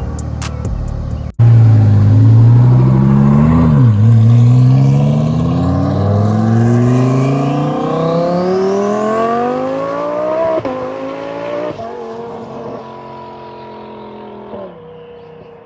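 Twin-turbo Lamborghini Huracán V10 accelerating hard at full throttle. The engine note climbs through the gears with several sharp drops at the upshifts, fading steadily as the car pulls away into the distance.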